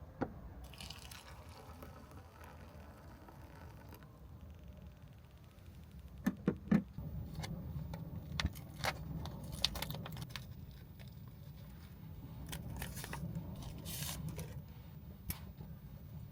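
Heavy rain on the roof of a kei van, heard from inside as a steady low rumble. Scattered small clicks of things being handled run over it, with a cluster of three louder knocks about six seconds in.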